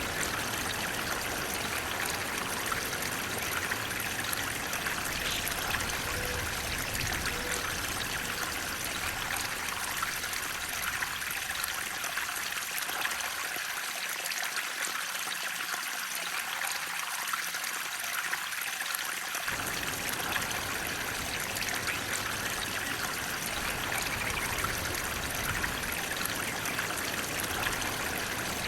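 Flowing water, a steady even rush with a trickling edge. Its low rumble fades out a little before the middle and cuts back in suddenly a few seconds later.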